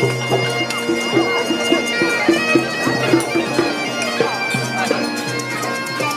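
Procession music: a wind instrument plays a quick melody of short notes over a steady held drone, with sharp clattering percussion throughout.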